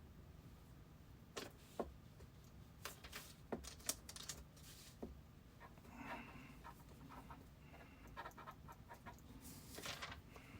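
Faint room tone with scattered small clicks, and a few short breath-like noises close to the microphone.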